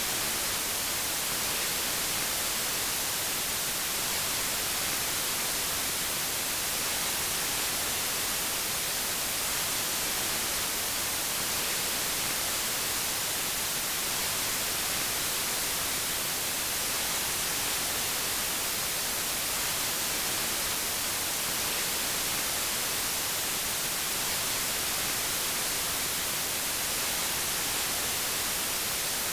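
Steady, unchanging white noise: an even hiss, strongest in the treble, with no other sound.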